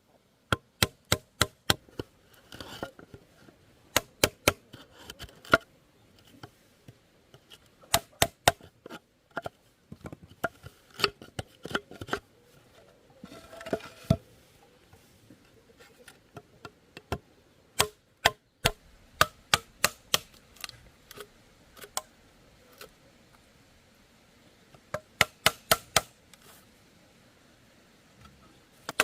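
A tool striking bamboo with sharp knocks, in bursts of several quick blows separated by pauses, as in chopping or cutting bamboo poles.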